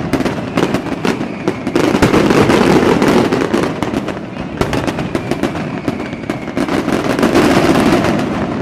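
A fireworks display: many rapid cracks and pops over continuous crackling, with a faint falling whistle twice.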